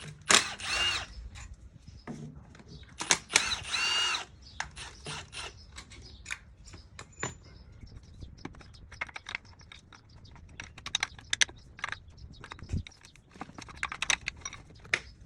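A power tool whirring in two short bursts with a high whine, the second one longer, followed by scattered light clicks and clinks.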